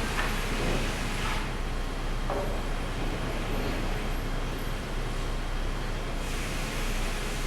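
Sawmill machinery running steadily: a constant low motor hum under a noisy drone, with a few light knocks in the first couple of seconds.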